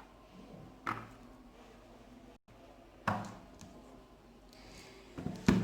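Three short knocks, a couple of seconds apart, as cut salted lemons are set into a glass jar.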